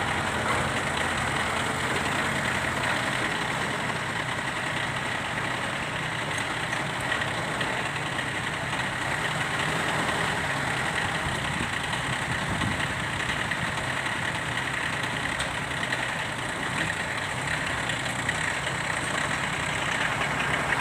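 Tractor's D1462-TV diesel engine running steadily at idle.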